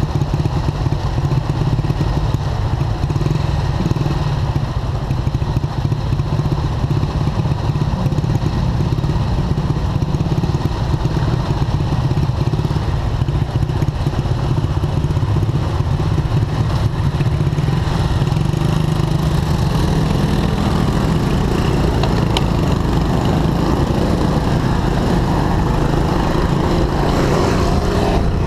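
Motorcycle engines idling close by in stopped traffic, a steady low hum.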